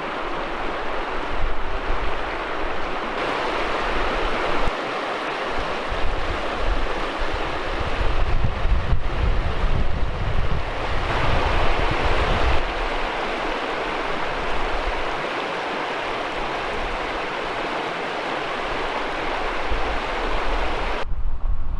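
Wind: a steady rushing hiss with irregular low gusts buffeting the microphone. Its character changes abruptly a few times.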